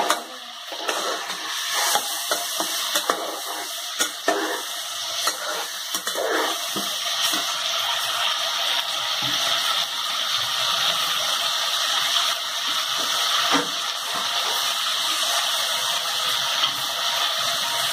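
Chicken pieces sizzling steadily in hot oil in a metal pot, with a few sharp knocks and scrapes from a stirring spoon against the pot.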